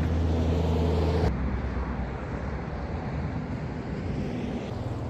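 Vehicle engine running with a steady low hum, cut off abruptly about a second in. It gives way to the rougher rumble and road noise of the vehicle driving.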